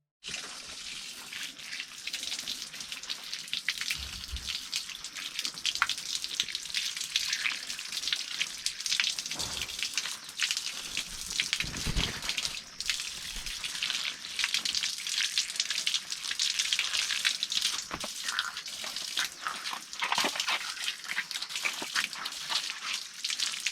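Running water splashing and crackling steadily, as from washing leafy greens under a tap.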